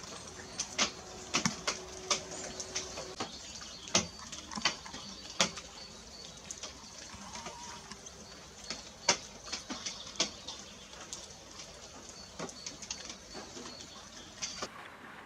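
Birds at a feeding station: irregular sharp taps and clicks throughout, over a steady high twittering that stops abruptly shortly before the end. A low held note runs for about two seconds, starting a little over a second in.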